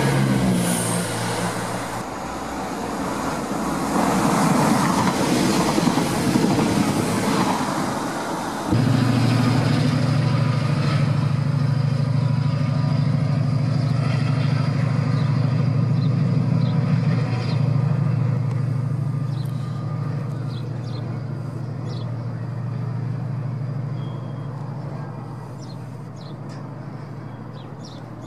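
A London Midland Class 170 diesel multiple unit passing close by, a loud rush of wheels and underfloor engines. About nine seconds in the sound switches abruptly to the steady low drone of a Chiltern Railways Class 68 diesel-electric locomotive hauling Mark 3 coaches, which slowly grows quieter.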